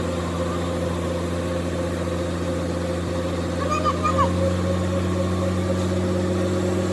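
A machine running with a steady low hum, and a brief cluster of short higher sounds about four seconds in.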